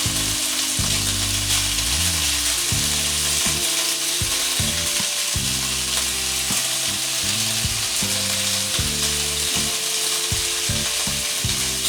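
Sliced chicken breast frying in olive oil in a pan, giving a steady sizzle as it browns.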